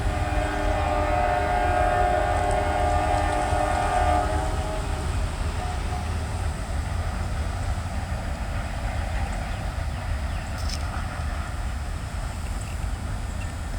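Locomotive air horn of a CSX CW44AC sounding a steady chord, which fades out about four to five seconds in. A steady low rumble is left behind.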